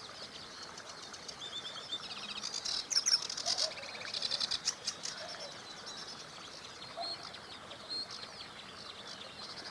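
Songbirds singing and chirping, several short calls overlapping, with a rapid rattling trill from about two to five seconds in as the loudest part, over the faint steady rush of a small river.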